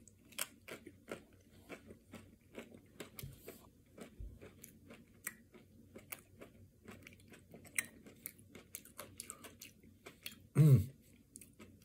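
Close chewing of a mouthful of Nestle KitKat Double Crunch ice cream bar, its chocolate coating with KitKat pieces giving a run of crisp crunches, a few a second. About ten and a half seconds in, a short hum of the voice, falling in pitch.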